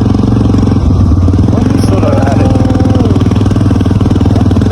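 Motorcycle engine running steadily while riding, a constant low drone with fine, even firing pulses.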